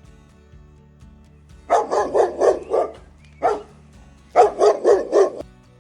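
A dog barking: a quick run of about five barks, a single bark, then another quick run of about five.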